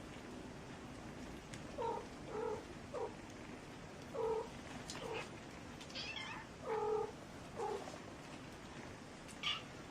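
A cat meowing over and over in short, drawn-out calls, about eight of them, with a couple of higher, thinner cries around the middle and near the end.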